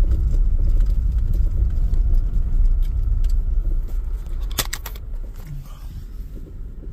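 Low rumble of a car driving, with one sharp click about four and a half seconds in; the rumble eases off after that.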